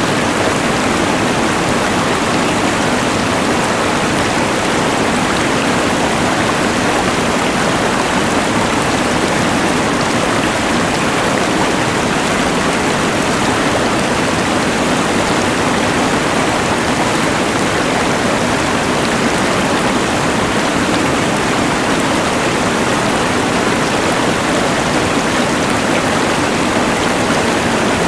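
Rushing mountain river blended with the steady hiss of a LectroFan white noise machine: a continuous, even wash of flowing water and noise with no change.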